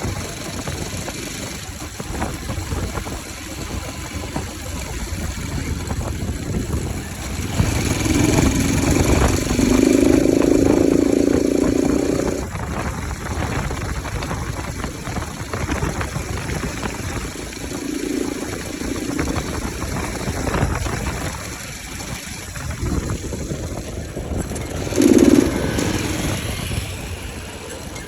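Bajaj Pulsar RS200 single-cylinder engine running with its air filter removed, idling and revved several times: a long rev held for a few seconds about a third of the way in, then shorter throttle blips later on.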